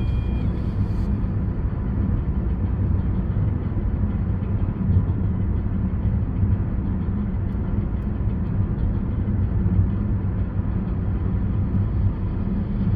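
Steady low rumble of a Changan car driving along: road and engine noise without changes.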